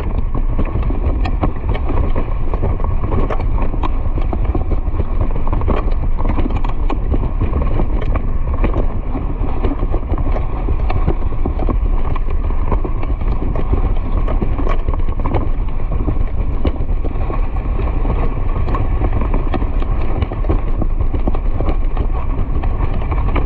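Steady rushing wind and motion noise on a moving microphone, with many faint quick clicks and knocks scattered through it.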